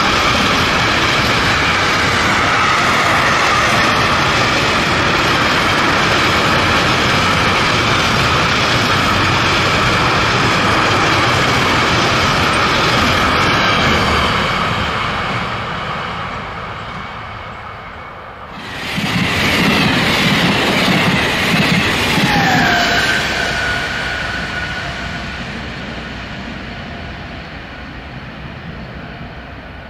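Freight train of covered wagons rolling past on the rails, a steady loud rumble that fades away from about 14 s in as the last wagons draw off. After an abrupt cut a second loud passing noise comes in, with a brief falling whine, and slowly fades.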